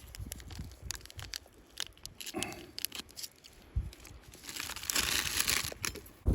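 Rustling and crinkling with scattered small clicks and crackles, and a longer stretch of hissy rustling about five seconds in.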